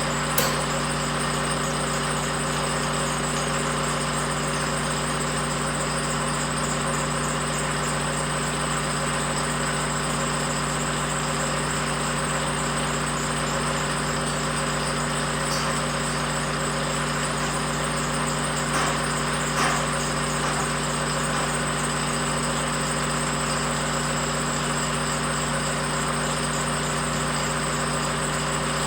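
An engine idling steadily, with one sharp knock about half a second in and two short clanks near the middle.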